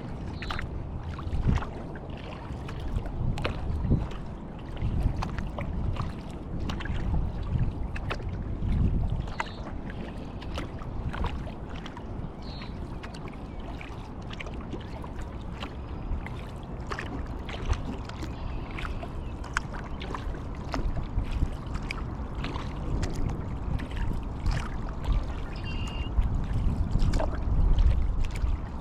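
Kayak paddling: the paddle blades dip and splash, and water drips and ticks off them in irregular small clicks. Under this runs a low rumble of wind and water on a GoPro's microphone.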